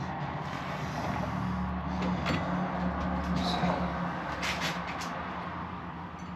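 Low engine hum of a vehicle, swelling for a couple of seconds and then easing, with a few light clicks on top.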